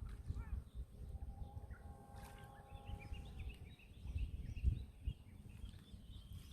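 Seaside ambience: a low, uneven rumble of waves with wind on the microphone, and birds calling over it, including one drawn-out call about two seconds in and short chirps throughout.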